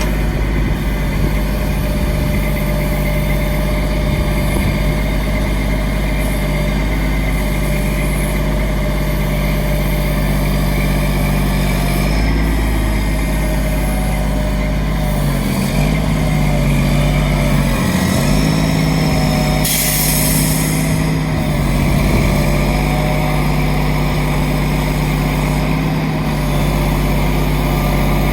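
Grapple truck's engine running steadily, its pitch stepping up about twelve seconds in and wavering for several seconds after, with a short hiss about twenty seconds in.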